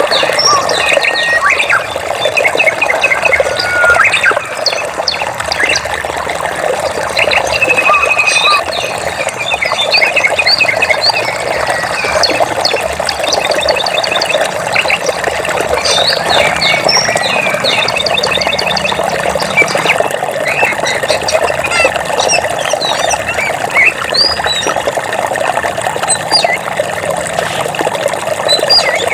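Running water in a forest stream, a steady rushing, with many birds chirping, whistling and giving quick trills over it throughout.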